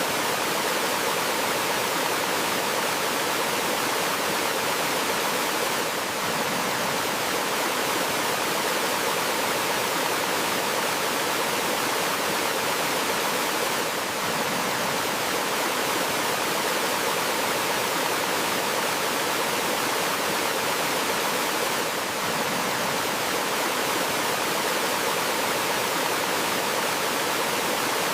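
Steady, even rush of water from a small forest waterfall, spread evenly from low to high pitch.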